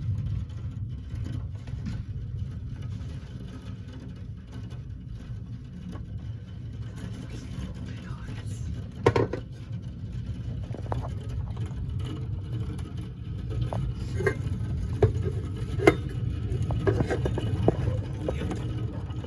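Thunderstorm noise: a low rumble that swells up at the start and then holds steady, with a few sharp taps about nine seconds in and several more near the end.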